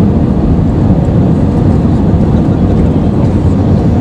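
Steady, loud low rumble heard inside the cabin of an Airbus A320-214 airliner: engine and airflow noise of the aircraft on the move.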